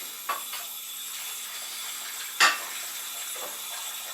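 Dishes knocking together as they are washed by hand in a sink: a few separate clinks, the loudest about two and a half seconds in, over a steady background hum.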